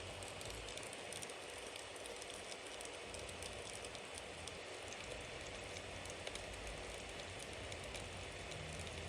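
Bonfire burning with a steady hiss and many small, irregular crackles and pops from the wood, over a low rumble.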